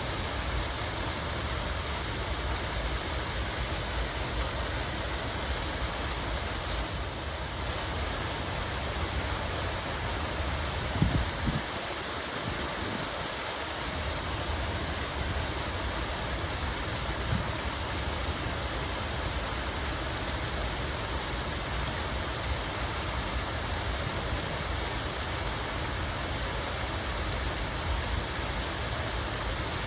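Steady rush of running water, an even hiss with a low rumble beneath it. There are a couple of brief low bumps about eleven seconds in.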